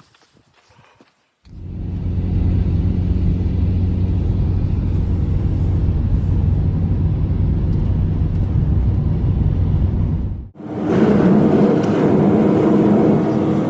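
An engine running steadily with a low hum, starting abruptly about a second and a half in; near the end it cuts to a similar steady engine sound pitched higher.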